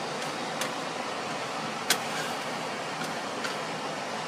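A spoon stirring flour into melted butter in a pot, clinking sharply against it a few times, loudest about two seconds in, over a steady rushing background noise.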